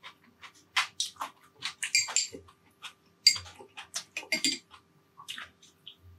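Close-miked mouth sounds of a person eating: chewing and lip-smacking as quick, irregular wet clicks, with a few louder, sharper clicks among them.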